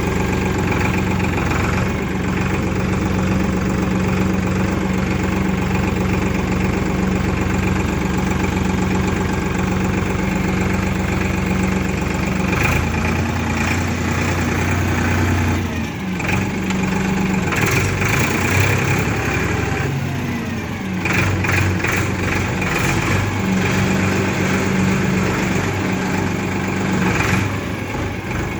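Heavy diesel engine running steadily, its note shifting about halfway through, with several clattering knocks in the second half.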